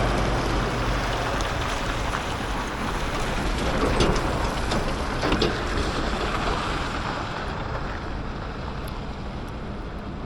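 A chip truck rolls past, its engine and tyre rush slowly fading as it moves away, with a few light clicks about four to five seconds in.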